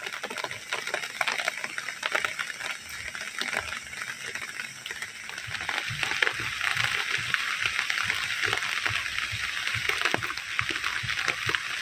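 Heavy rain falling, a dense crackling patter of countless drops that grows louder about halfway through.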